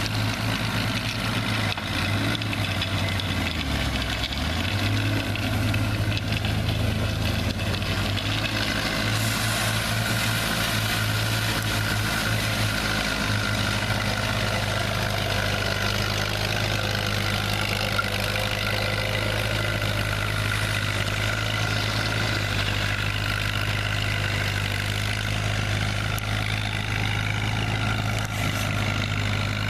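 A heavy vehicle engine running steadily, its low note dipping and picking back up about four seconds in.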